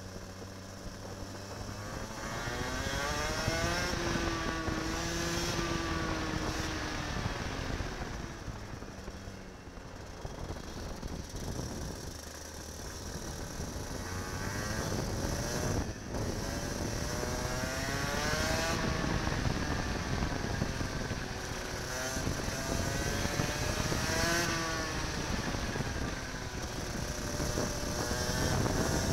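Kart engine close to the microphone, its revs climbing several times on acceleration and dropping back between, lap after lap.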